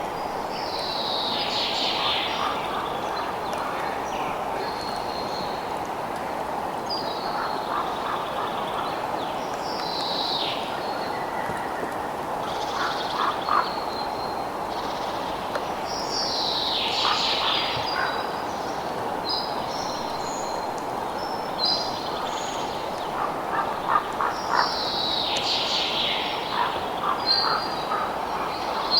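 Birds calling over a steady background hiss: a high call that falls in pitch repeats about every seven to eight seconds, with shorter whistled notes and clicky chatter between.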